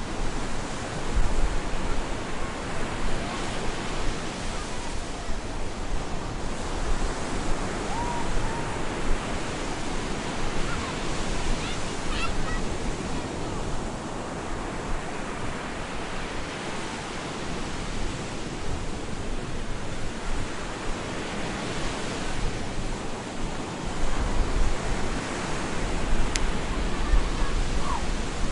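Stormy ocean surf breaking on a beach: a continuous wash of waves that swells and ebbs every few seconds, with a low rumble near the start and again near the end.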